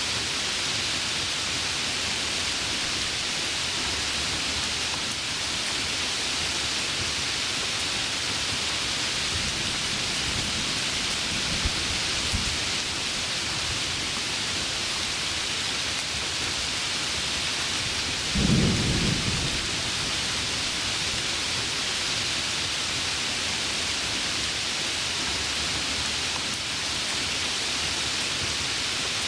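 Heavy rain falling steadily in a thunderstorm, with a low rumble of thunder about ten to twelve seconds in and a louder thunderclap rumbling at about eighteen to twenty seconds.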